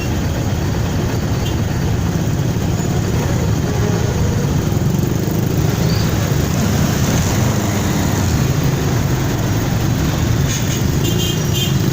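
Steady engine and road noise of a vehicle under way, even in level throughout, with a few faint short high tones near the end.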